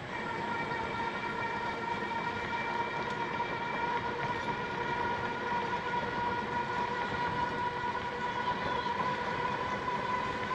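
A train passing, with a steady chord of several high-pitched tones held over the rumble; the sound grows slowly louder.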